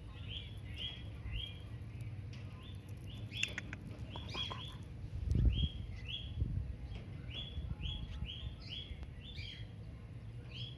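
Pet cockatiels chirping: short, repeated chirps about two a second. A low thump sounds about five and a half seconds in.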